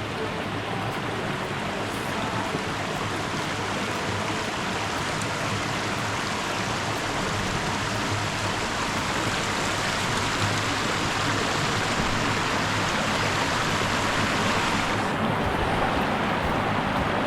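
Steady rushing of a waterfall's falling water, slowly getting a little louder. Its upper hiss turns duller near the end.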